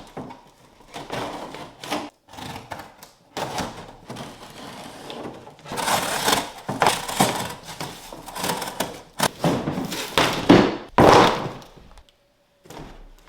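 Parts of a kit being unpacked and handled for assembly: irregular knocks, clatter and rustling, loudest in the second half.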